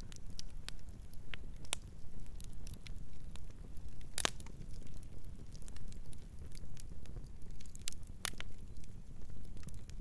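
Wood fire crackling: a steady low rumble of the flames under scattered sharp pops and snaps. The loudest snap comes about four seconds in, with another strong one about eight seconds in.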